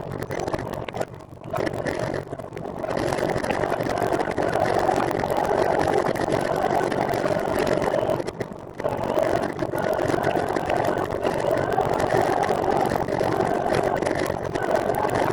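Steady rushing noise of riding a recumbent trike, wind and tyre-on-road noise at the microphone, with brief dips about a second in and again just past eight seconds.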